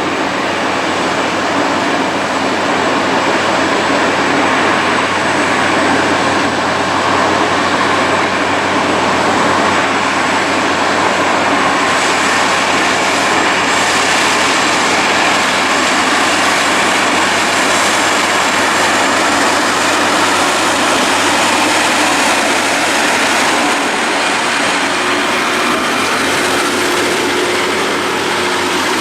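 Heavy-haulage trucks passing: a steady, loud drone of big diesel engines and tyres on the road.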